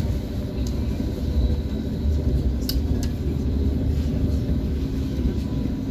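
ES1P Lastochka electric train running along the track: a steady low rumble with a few sharp clicks, twice close together about three seconds in.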